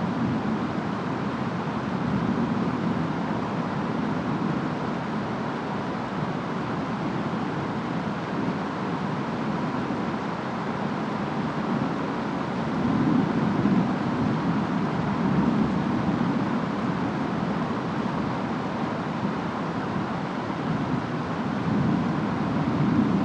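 Steady rain and wind of a distant rainstorm, an even hiss with a low rumble that swells up a few times, around halfway through and again near the end.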